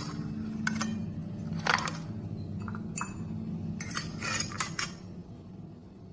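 Dishes and kitchenware clinking and knocking as they are handled, a string of separate sharp clinks over a steady low hum.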